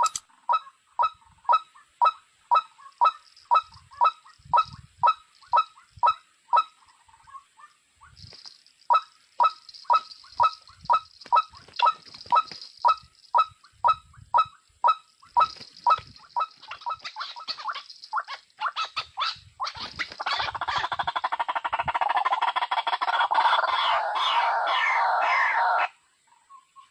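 Bird calls repeated in a steady, evenly spaced series of about two and a half a second, breaking off briefly about seven seconds in and then resuming. About twenty seconds in they give way to a dense, continuous chatter that cuts off suddenly near the end.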